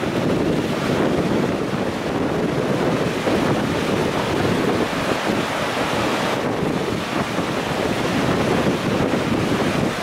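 Steady rushing of the Kizu River in typhoon flood, with wind buffeting the microphone.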